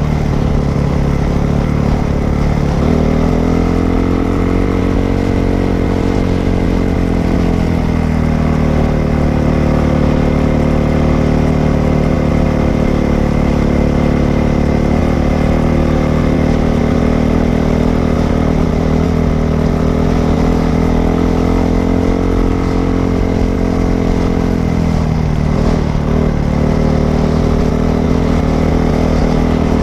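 Dirt bike engine running while being ridden. The revs rise about three seconds in, ease back a little later, and drop again near the end, as with throttle and gear changes.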